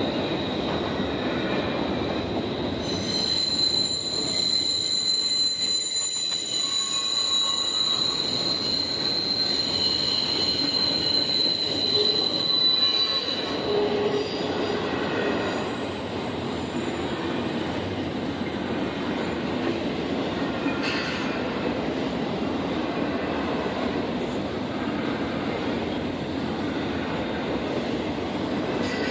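Train rolling past with a steady rumble of wheels on rail and high-pitched wheel squeal, its ringing tones held for several seconds at a time.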